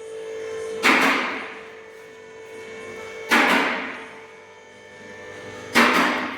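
Three loud, sharp knocks about two and a half seconds apart, each echoing away over about a second in a reverberant workshop, with a steady hum underneath.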